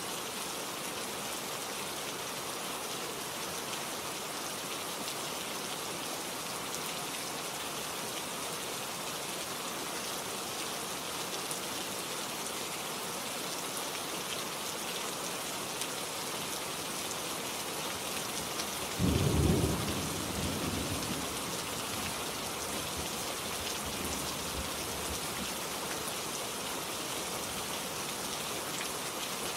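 Rain falling steadily. About two-thirds of the way through, a short, sudden clap of thunder rises above it and rumbles away over a couple of seconds.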